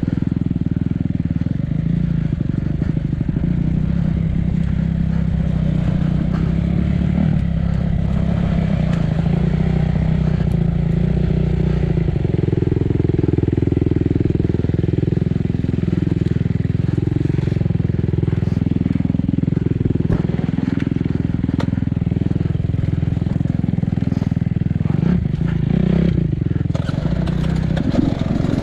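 Enduro dirt bike engine running as it is ridden off-road, the pitch rising and falling with the throttle.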